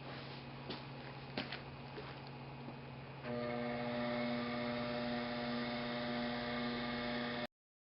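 Steady electrical hum with a few light clicks and knocks, then about three seconds in a drill press motor switches on and runs with a steady pitched hum, ready to drill with a hole saw.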